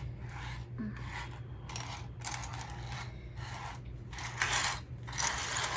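Small plastic Lego pieces rattling and clattering in a series of short rattles as a parts bag is opened and handled, loudest near the end.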